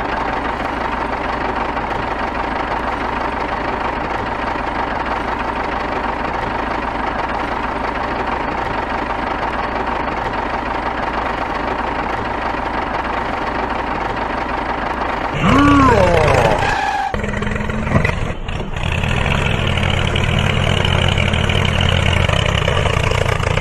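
Small engine running steadily. About fifteen seconds in, a louder engine sound comes in with quick rising and falling sweeps in pitch, then keeps running.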